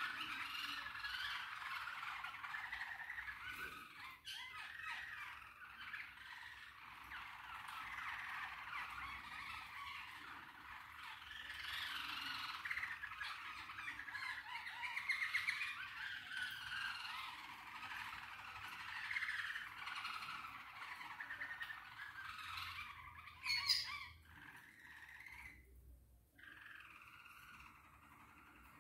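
Small caged pet birds chirping and warbling almost without pause, with a short, sharper and louder sound about 23 seconds in and quieter stretches near the end.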